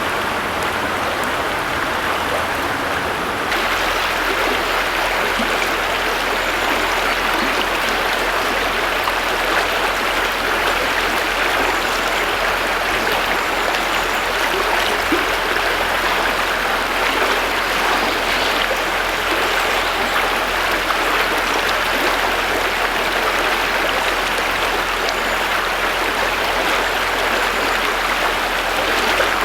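River water running steadily over a stony riverbed, a continuous rushing.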